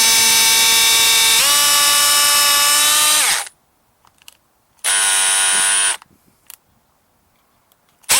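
Power drill running with a steady whine, its pitch stepping up about a second and a half in and winding down at about three and a half seconds. A second, shorter run follows about five seconds in, then a couple of quick blips at the end. The drill bit is opening up the brass jet of the snowblower's carburetor.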